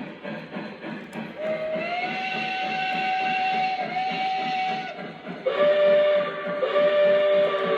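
Whistle of a sound-equipped O scale model steam locomotive, played through its onboard speaker: a long blast with a short second one, then after a brief gap a lower two-note chord whistle blown twice. Under it runs the steady rhythmic chuff and clatter of the running train.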